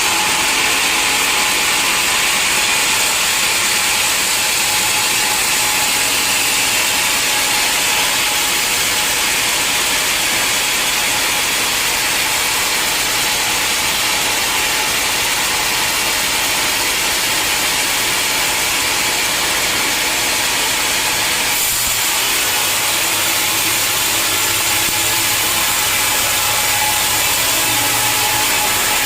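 Sawmill saw cutting through a mahogany log: a steady, continuous cutting noise, shifting slightly about 21 seconds in.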